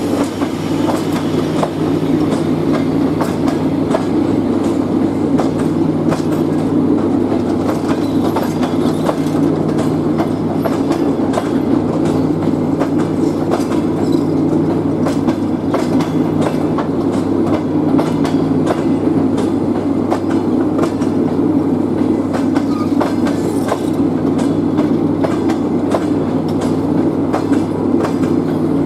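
Passenger coaches rolling slowly past: a steady rumble of bogies and wheels on rail, with frequent clicks and clacks as the wheels cross rail joints.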